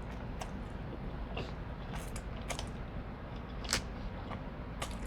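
Close-miked eating: a handful of sharp, scattered mouth clicks and smacks while chewing garlic noodles, over a steady low hum.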